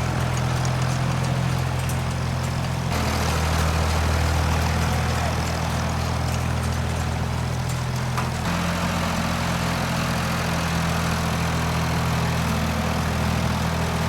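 Farm tractor engine running steadily under load as it pulls a hay rake, its note changing abruptly twice.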